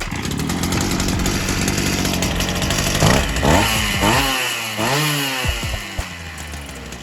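Oleo-Mac Sparta 37 brushcutter's two-stroke engine running, revved up and back down about three times a few seconds in, then settling to a steadier speed.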